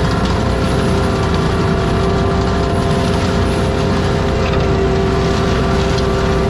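ASV RT-120F forestry compact track loader running with its mulcher head working, a steady machine din with a constant whine over it.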